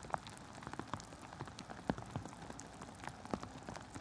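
Heavy rain falling, with drops striking a nearby surface in irregular sharp ticks over a steady hiss.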